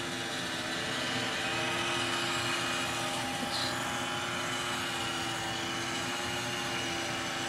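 iRobot Roomba robot vacuum running as it cleans the floor: a steady whine of several held tones over an even hiss of its motors and suction.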